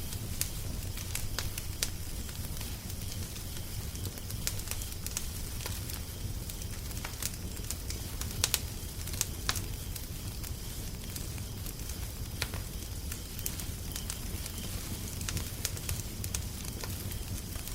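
Wood fire crackling: irregular sharp pops and snaps, a few louder ones about eight and a half seconds in, over a steady low rumble.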